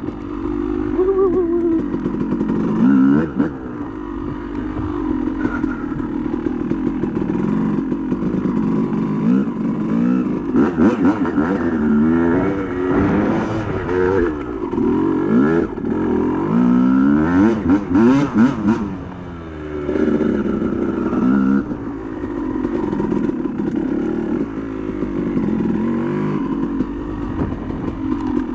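Yamaha YZ250 single-cylinder two-stroke dirt bike engine being ridden, its pitch climbing and falling again and again with quick throttle blips. The busiest run of revving comes about two-thirds of the way through, followed by a short dip as the throttle is rolled off.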